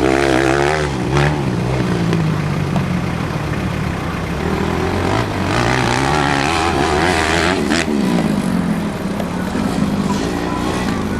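Motocross bike engines revving and easing off, their pitch climbing and falling again and again as the throttle is opened and closed.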